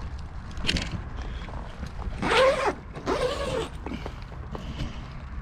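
Handling noises aboard a small boat: a knock, then two creaking, scraping sounds of about half a second each, two to three and a half seconds in.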